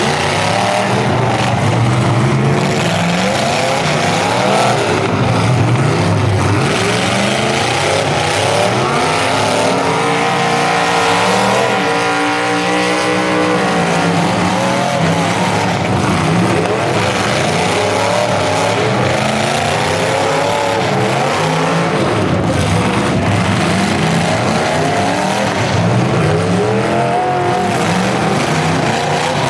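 Several full-size demolition derby cars' engines running and revving together, their pitches rising and falling over one another.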